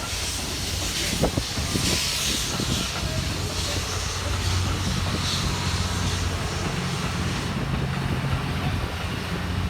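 Steam locomotive pulling a train out of a station: puffs of steam hiss roughly every second or so over the steady low rumble of the train moving off.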